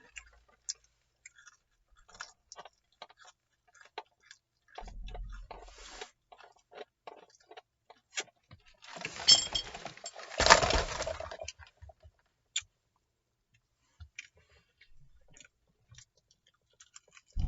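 Someone chewing and crunching crispy fried chicken (KFC Extra Crispy), heard as scattered small crackles and clicks, with a louder crackling stretch about nine to eleven seconds in.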